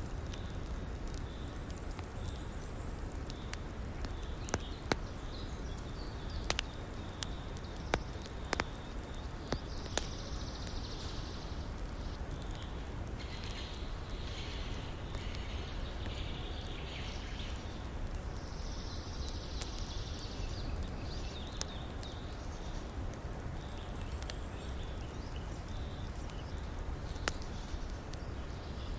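Campfire crackling, with scattered sharp pops, over a steady low rush of river water. A high-pitched call comes and goes in bursts of a couple of seconds, several times.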